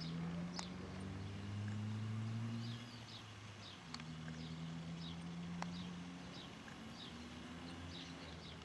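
Outdoor fire burning with a few sharp crackling pops, under a low droning hum that holds and shifts in pitch every second or two, with birds chirping over it.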